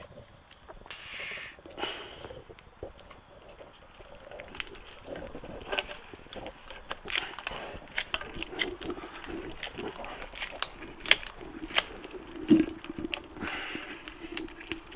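Irregular clicks, taps and rustling of hands and small metal parts working a coolant hose and its clamp onto a motorcycle engine.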